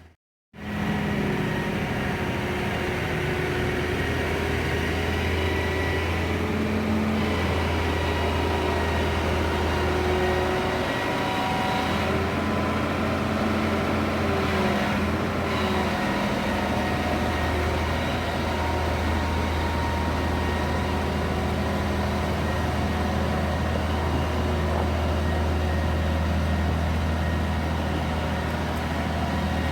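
A lorry's engine running steadily with a deep, unchanging hum.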